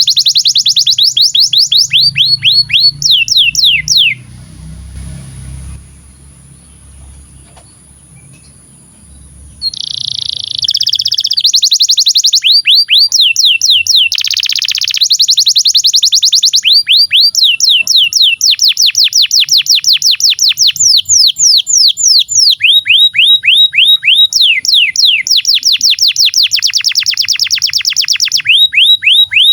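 Male domestic canary singing a long song of rapid trills, each a fast run of falling notes that changes speed and pitch from phrase to phrase. The song stops about four seconds in and picks up again after a pause of about six seconds.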